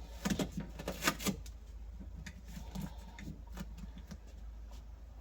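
Hands working sound-deadening padding into place: a quick cluster of sharp crackles and taps in the first second and a half, then lighter scattered rustling and ticking.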